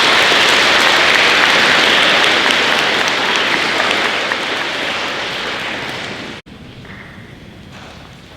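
Audience applauding in a school gym. The clapping is loud and dense, eases off after about four seconds, and cuts off abruptly about six and a half seconds in, leaving a quieter hiss.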